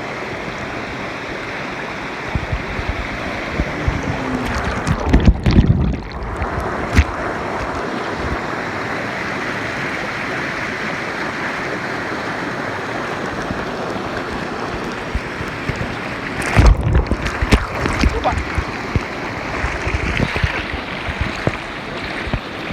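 Waterfall's falling water rushing steadily. Bursts of microphone buffeting come about five seconds in and again around seventeen seconds.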